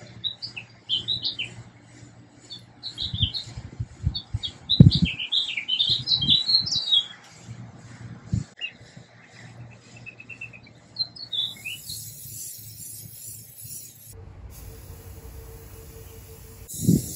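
Small birds chirping and tweeting in quick, repeated phrases, with a few dull knocks underneath. About twelve seconds in, the birdsong stops and a steady hiss with a faint hum takes over, ending in a single thump.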